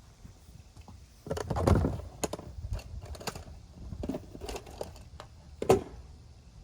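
Handling noise of small hard objects being moved and set down: a cluster of knocks and clatter about a second in, scattered light clicks and taps, and one sharp knock near the end.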